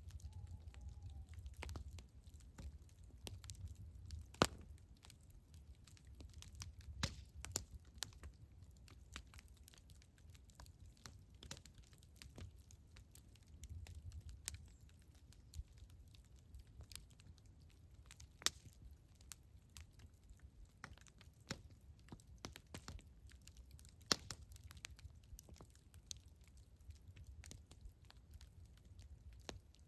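Wood campfire crackling: irregular sharp pops and snaps, with a few louder pops about four, eighteen and twenty-four seconds in, over a low steady rumble.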